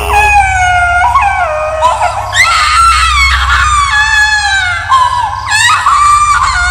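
Horror sound effect of a ghostly baby crying and screaming: a run of high, wailing cries that mostly slide down in pitch, each starting anew with a sharp rise, over a steady low drone.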